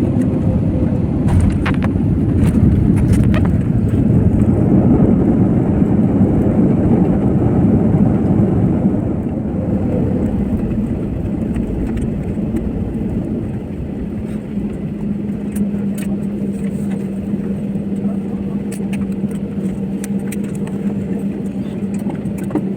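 Plane landing: a loud, steady rumble that eases about nine seconds in, leaving a quieter hum with a steady low tone.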